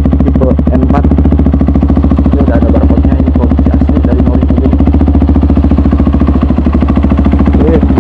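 Honda CRF 150L's single-cylinder four-stroke engine running steadily at idle through a Norifumi RV1 N4 aftermarket exhaust, an even, rapid low thumping.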